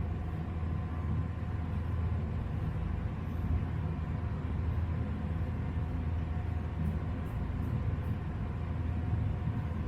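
A steady low mechanical hum, with faint short scrapes of an Ikon slant safety razor drawn over lathered stubble now and then.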